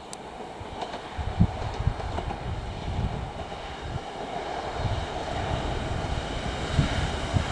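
Kintetsu electric train approaching along the line and growing steadily louder, with wind gusting on the microphone.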